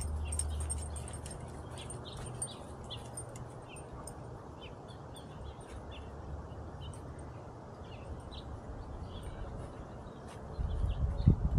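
Small birds chirping, short high calls scattered throughout over a steady low rumble. Near the end a louder, uneven low rumble sets in.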